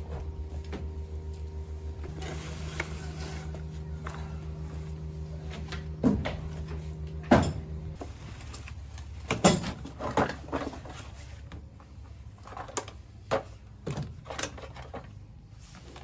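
A steady low machine hum that stops about eight seconds in, with a series of sharp knocks and clunks, the loudest about six and seven seconds in, then more scattered clunks.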